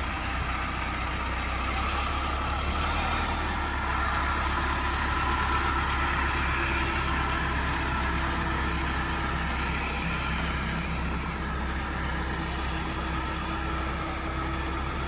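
Heavy farm diesel engine running steadily with a constant low hum, from one of the tractors or the combine harvester in the recovery.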